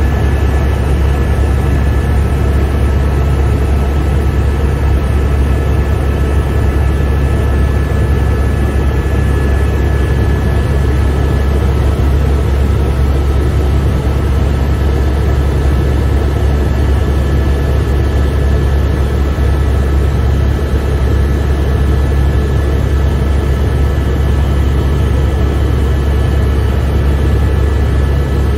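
Helicopter in flight heard from inside the cabin: a loud, steady, deep drone of rotor and engine, with a couple of faint steady high whines over it.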